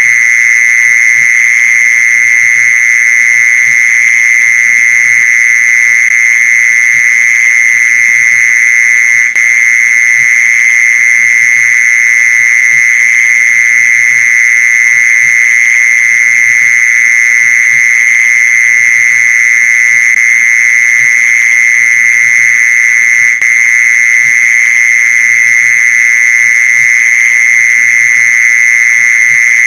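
Mole cricket call, a continuous high trill held at one pitch, used as a lure sound for mole crickets. It breaks off very briefly twice.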